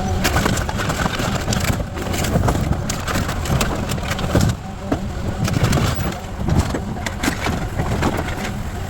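House demolition: timber splintering and debris crunching in a dense, irregular run of sharp cracks and knocks, over a steady low engine rumble.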